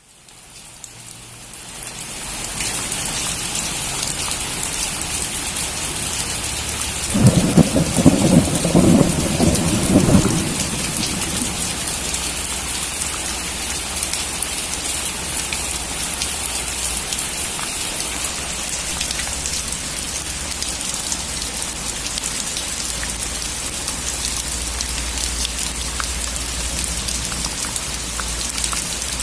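Steady rain falling, fading in over the first two seconds, with a roll of thunder rumbling for about three seconds starting some seven seconds in.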